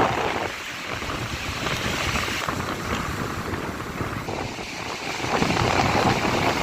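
Sea surf washing onto the beach, with wind buffeting the phone's microphone; the waves swell louder about five seconds in.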